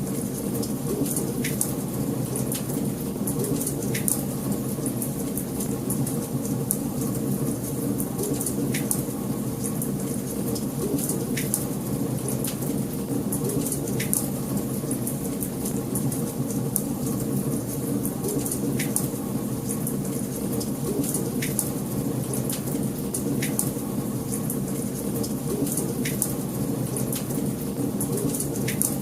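Wood fire burning in a fireplace: a steady low rush of flame with fine continuous crackling and about ten sharper pops spread through.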